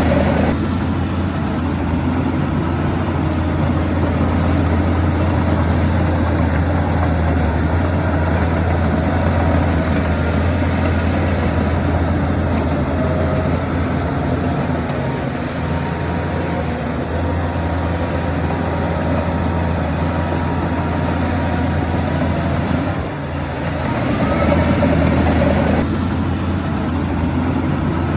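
Heavy diesel engine of earthmoving machinery running steadily with a low hum, dipping briefly near the end and then picking up again.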